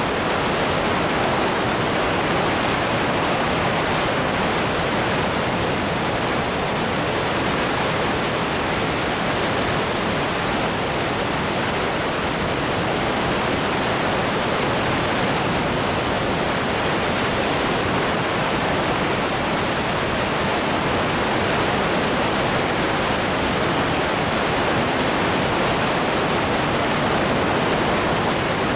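Goðafoss waterfall pouring: a steady, unbroken rush of falling water.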